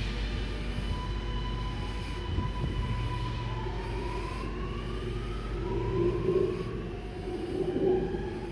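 Electric passenger train moving at the station: a low rumble with thin high whining tones that hold steady and then glide up and down in pitch.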